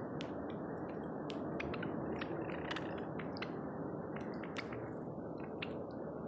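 Small birds making many quick, sharp chips and clicks at irregular intervals, over a steady low hiss.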